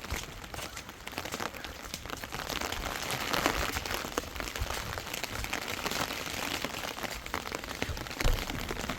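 Rain falling steadily on a surface: an even hiss dotted with many small drop ticks, a little heavier from about three seconds in.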